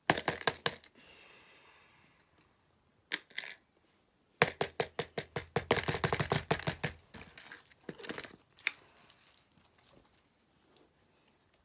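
Bursts of quick clicking and rattling from plastic fidget toys being handled. The longest run of clicks starts about four seconds in and lasts two to three seconds.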